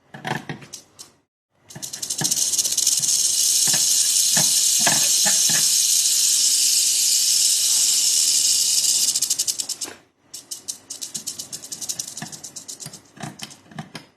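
Mojave rattlesnake rattling its tail in a loud, steady buzz for about eight seconds, the defensive warning of a stressed snake. Short sharp clicks come before it and a quicker run of clicks follows it.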